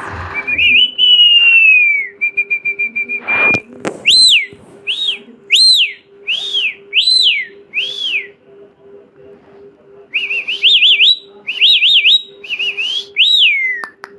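Pet parrot whistling: a long falling whistle, a held buzzy note, then a run of about six short rising-and-falling whistled notes. Near the end come quick warbling whistles, finishing in a falling glide.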